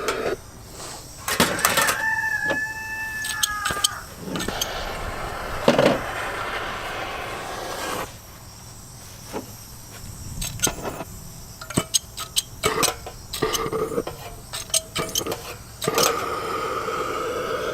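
A handheld gas torch being lit with repeated sharp igniter clicks; from about three-quarters of the way in, a steady hissing tone sets in as it catches. A rooster crows once, about two seconds in.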